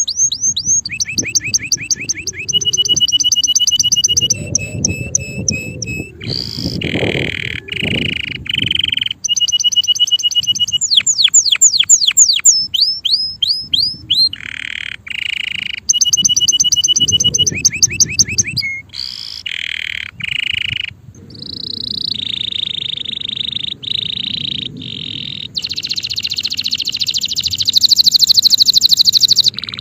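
Male canary singing continuously, a chain of rapid repeated-note phrases that change every second or two: fast downward-sweeping notes, buzzy rolls and steady high trills.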